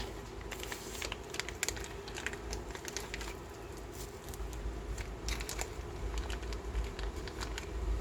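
A lathe running with a steady hum, while short crinkling, scratching sounds come and go in two stretches over it, in the first half and again about five seconds in.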